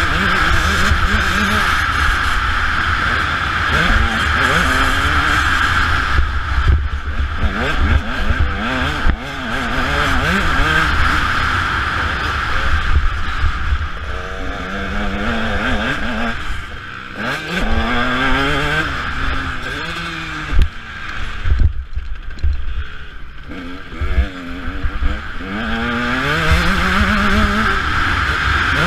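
Motocross dirt bike engine heard from on board, revving up and falling back over and over as the rider works through the gears, with several short drops where the throttle is rolled off. Heavy wind rumble on the microphone runs beneath it.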